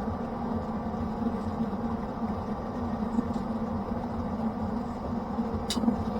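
Pellet grill running with a steady motor-and-fan hum and a low pulsing rumble. A single sharp click comes near the end.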